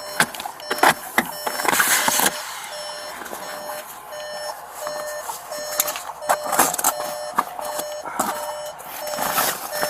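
A car's electronic warning chime beeping steadily, about two beeps a second, from the crashed Volkswagen Atlas with its airbags deployed. Over it come rustling and scraping noises as the deployed airbag is handled and cut with a knife.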